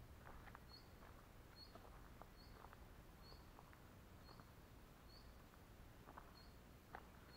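Near-silent riverside quiet with a bird's faint high note repeating evenly, a little more than once a second, and scattered short faint chirps.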